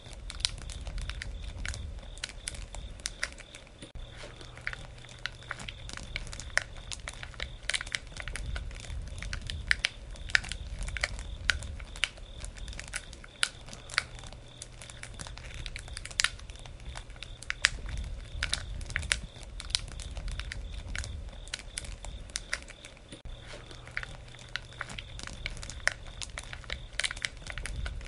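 Wood fire burning, with sharp crackles and pops at irregular intervals over a low, steady rumble.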